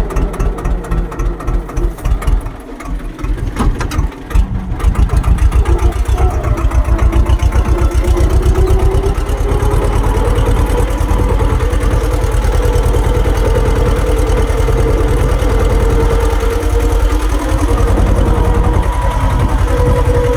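Swaraj tractor's diesel engine idling with an uneven, pulsing beat. About five seconds in it picks up to a louder, faster steady run, with a whine that rises and then holds.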